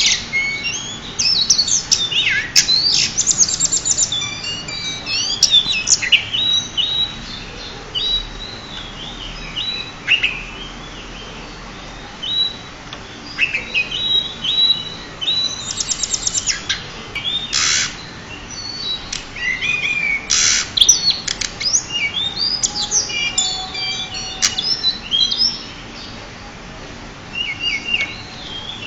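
Pied bushchat (decu) singing in bursts of varied chirps, quick sweeps and rapid trills, with short pauses between phrases. A champion bird's song of the kind played to tutor other caged songbirds.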